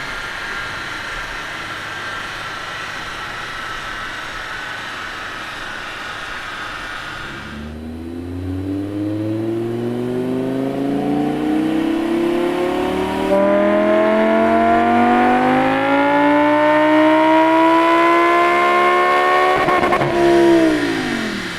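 Audi R8 V10 Performance's 5.2-litre V10 through a Kline Inconel valved sports exhaust. It cruises with a steady note, then pulls hard under throttle with the pitch climbing for about twelve seconds and getting louder partway through. Near the end it comes off the throttle and the revs drop quickly.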